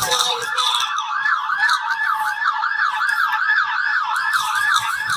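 Police car siren in fast yelp mode, its pitch rising and falling about four times a second.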